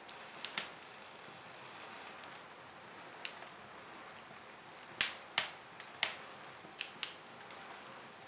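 Wood fire in a fireplace crackling: scattered sharp pops and snaps over a steady faint hiss, the loudest pops coming in a cluster about five seconds in.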